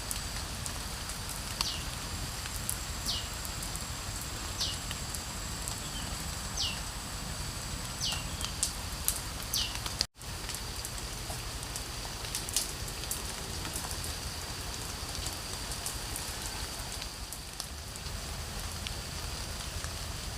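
Steady rain hiss with scattered ticks and crackles and a thin, high, steady insect-like drone. Through the first half a short falling call repeats about every one and a half seconds. The sound drops out briefly about halfway through.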